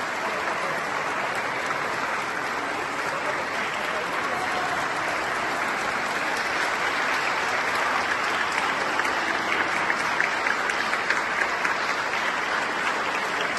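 Audience applauding, the clapping growing a little louder past the middle.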